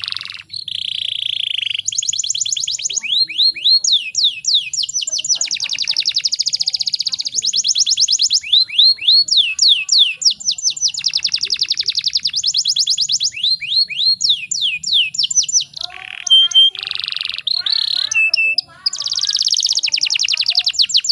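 Domestic canary singing a long song made of fast trills: rapid runs of repeated high notes, many sweeping down in pitch, strung together with only brief breaks.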